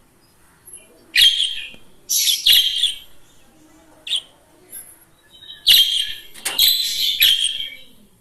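Pet budgerigar singing: bursts of high, scratchy warbling and chirps with short pauses between them, the longest run in the second half.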